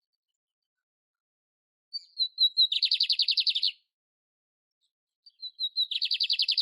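Canário-império (a canary) singing the same short phrase twice, a few seconds apart: a few thin, slightly falling high notes, then a fast, even trill of about a second.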